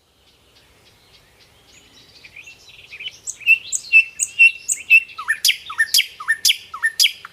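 Small pet birds chirping, faint chatter at first that grows louder, then loud short chirps about twice a second, with sharp downward-sweeping calls near the end.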